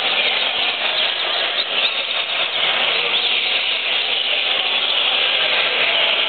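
Many caged coleiros (double-collared seedeaters) singing at once: a dense, continuous tangle of high chirping phrases overlapping one another.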